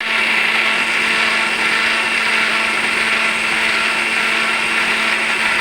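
A small electric motor running steadily with a loud, even whirring and a constant low hum.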